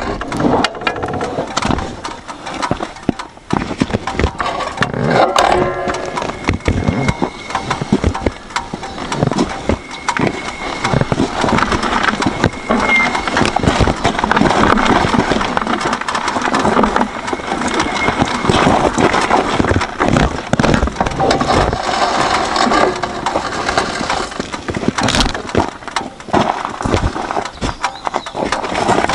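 Suzuki V-Strom 1000's V-twin engine running, mixed with a dense clatter of knocks and clicks.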